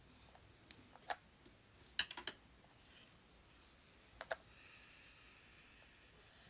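Light clicks and taps from small objects being handled: one about a second in, a quick cluster of three or four around two seconds, and a pair just after four seconds. A faint steady high hiss runs through the second half.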